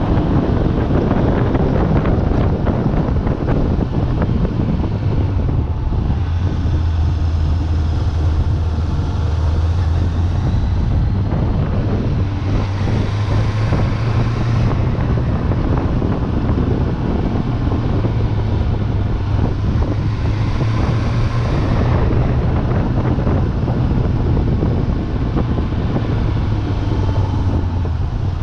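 Suzuki Bandit 600's inline four-cylinder engine running through its original exhaust while the bike is ridden, its pitch shifting slightly with the throttle. Heavy wind noise on the microphone runs under it.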